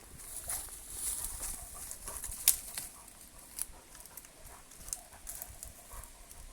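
Footsteps crunching and rustling through dry leaf litter and brush: a run of irregular crackles and clicks, with one sharper click about two and a half seconds in.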